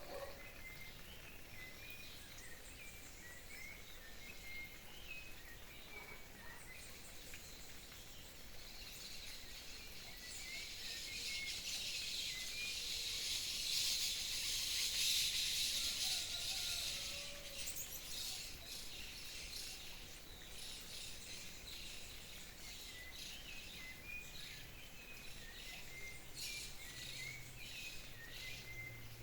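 Birds calling and chirping, a short chirp repeated over and over, with an insect's high buzz swelling up and fading away through the middle.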